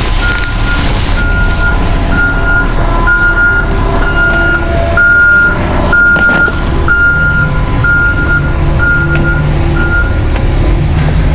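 A vehicle's electronic warning beeper sounding in a steady chain, a little more often than once a second, then stopping shortly before the end, over the low rumble of a running vehicle engine.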